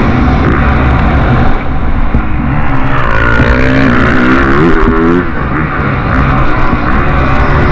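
Motocross bikes' engines revving hard, the pitch rising and falling again and again as the riders open and close the throttle and shift.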